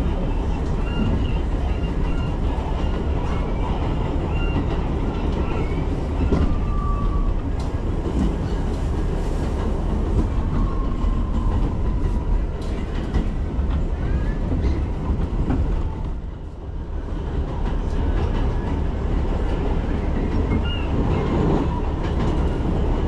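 New York City subway train running along the track, heard from inside the car: a steady rumble and rattle of the wheels, with a few brief wheel squeals. It quietens briefly about two-thirds of the way through.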